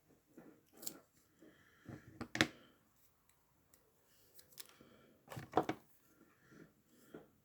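Paper and document repair tape being handled: light rustles and taps, with two louder, sharper sounds, one about two and a half seconds in and one about five and a half seconds in.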